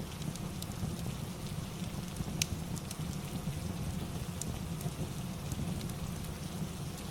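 Steady rain with sharp pops and crackles from a fireplace scattered through it, the loudest pop about two and a half seconds in.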